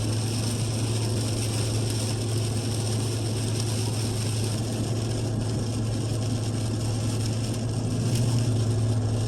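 Steady road and engine noise inside a moving vehicle's cab, with a constant low hum and no change in level.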